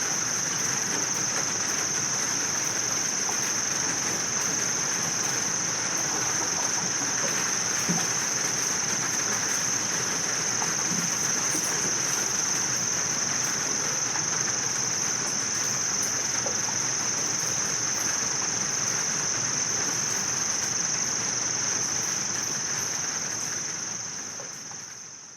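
Insects trilling in one steady, unbroken high-pitched drone over a constant background hiss, fading out over the last couple of seconds.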